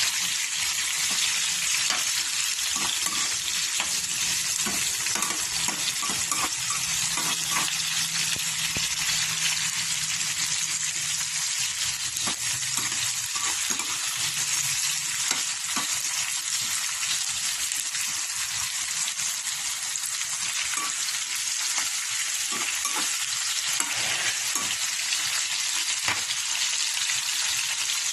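Garlic, onion, tomato and potatoes sizzling as they sauté in hot oil in a pan, with the scattered clicks and scrapes of a spatula stirring them.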